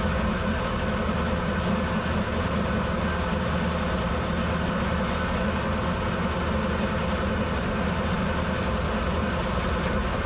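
Farm tractor engine running steadily at a constant speed, as when mowing with a bush hog.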